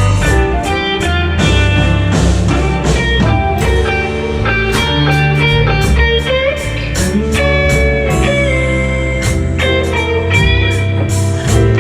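Live blues band playing an instrumental passage, with guitar to the fore over bass and drums; several notes slide in pitch.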